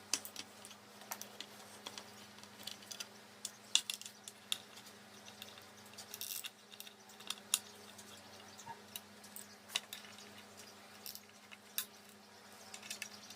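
Scattered light metallic clicks and clinks of hand tools and bolts as a cover plate is bolted down onto the engine block, at irregular intervals.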